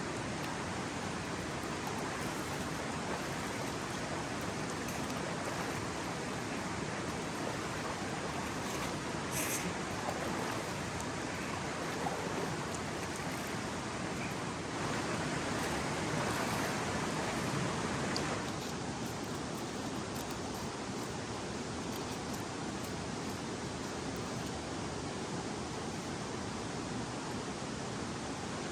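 Steady rushing of a mountain river, an even hiss of flowing water that swells slightly for a few seconds about halfway through.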